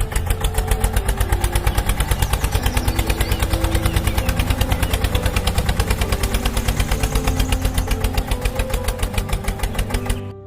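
A small single-cylinder engine chugging steadily at about eight or nine beats a second, over background music. It cuts off suddenly near the end.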